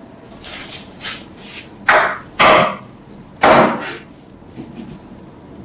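Hand tool work on a metal oil lamp: a string of short, sharp scraping or striking strokes, the three loudest close together near the middle.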